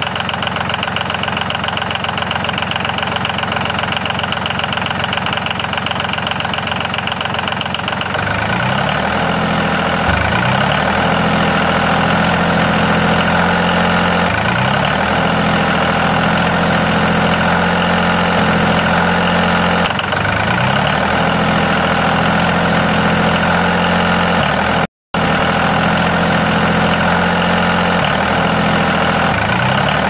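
Mini tractor's small engine running steadily while it pulls a cultivator through sand. About eight seconds in the sound changes, and after that the pitch swoops up briefly every few seconds. The sound cuts out for a moment near the end.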